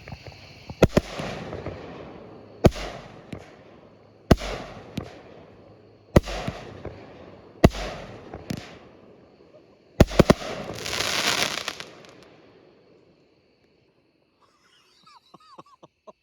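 Kripton Fireworks 'Raptor' 9-shot 200-gram consumer firework cake firing its final shells. Sharp bangs come every 1.5 to 2 seconds, each followed by a crackling tail. A closing double bang about ten seconds in sets off a dense wash of crackle that dies away a few seconds later.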